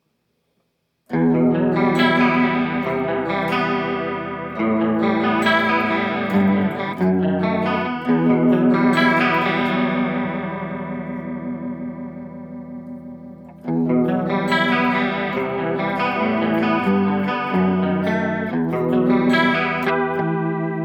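Electric guitar playing chords and arpeggios through a chorus pedal, each note shimmering and wavering. Playing starts about a second in; in the middle one chord is left to ring and fade for several seconds before the playing picks up again.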